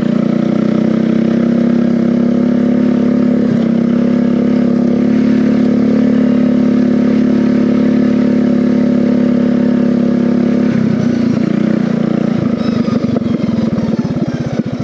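Engine of a home-built racing riding mower held at a steady high speed on a third-gear speed run. About eleven seconds in it drops back to a lower, pulsing note as the mower slows.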